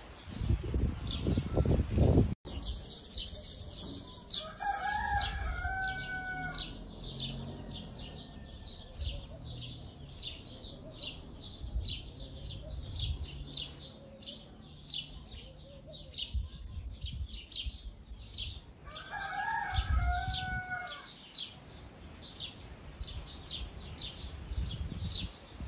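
Birds heard in the background: high chirps repeat steadily about twice a second, and two longer gliding calls come about five seconds in and again near twenty seconds. The first two seconds hold a louder low rustling that cuts off abruptly.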